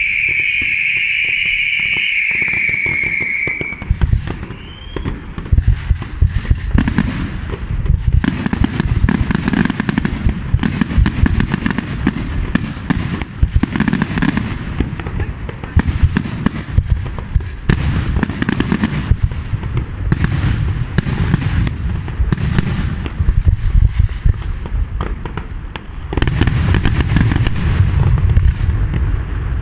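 Aerial fireworks display: a steady high-pitched whistle for the first few seconds, then a dense, continuous barrage of bangs and crackling that runs on to the end, with a short rising whistle just after the barrage begins.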